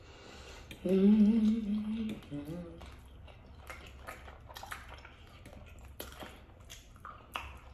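A person hums a held 'mmm' for just over a second, then a shorter, lower hum; after that, scattered light clicks and taps of eating.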